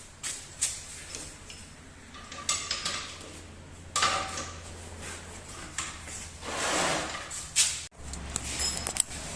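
Metal clinks and knocks of tools or parts being handled, scattered and uneven, over a steady low hum.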